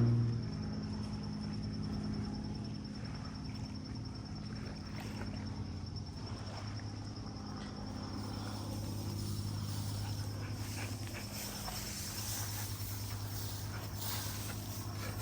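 Insects trilling steadily in a continuous high-pitched drone over a low steady hum, with faint scattered rustles.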